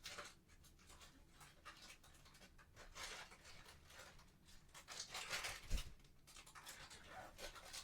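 Faint rustling and handling of small items by hand, in irregular strokes, with a soft bump about three-quarters of the way through.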